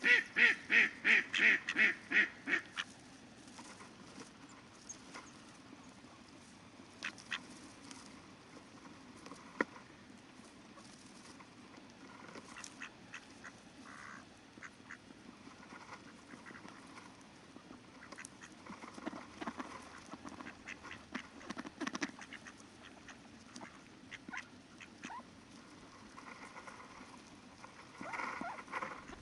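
Ducks quacking: a run of about ten loud quacks in quick succession in the first three seconds, then softer scattered calls and clicks, with a few more quacks later and near the end, over the faint murmur of river water.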